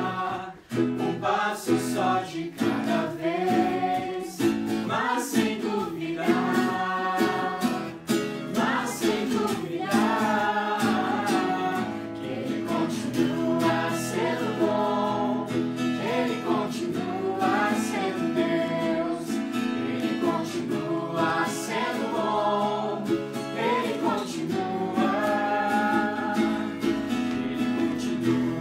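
Live acoustic worship music: voices singing a Portuguese worship song together over a strummed acoustic guitar.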